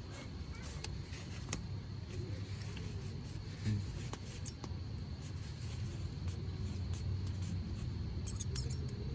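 Hardwood campfire crackling, with scattered sharp pops and one loud snap about halfway through, over a low steady rumble.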